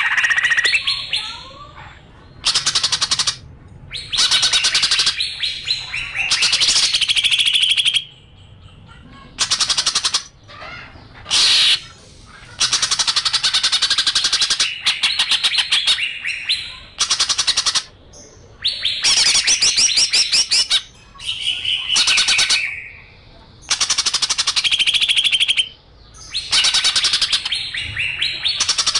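A songbird singing in repeated bursts of rapid, rattling trills, about a dozen of them, each lasting one to a few seconds, with short whistled notes between the bursts.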